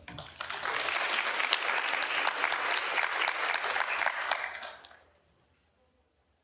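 Audience applauding to welcome a speaker, a dense patter of claps that dies away about five seconds in.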